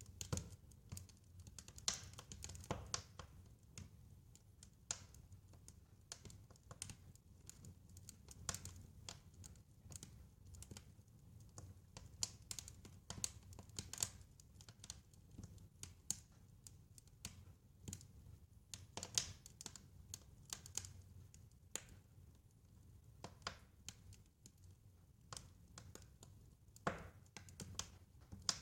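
Wood fire crackling, with irregular sharp snaps and pops over a low, steady rumble of burning.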